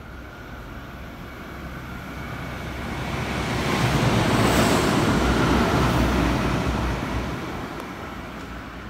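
A train passing by: a rushing noise that builds over a few seconds, peaks in the middle and fades away as it goes.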